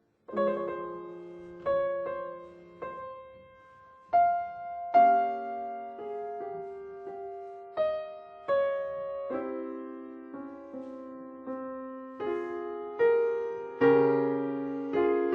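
Solo piano playing a slow, quiet classical passage: single notes and soft chords struck one after another at an unhurried pace, each left to ring and fade.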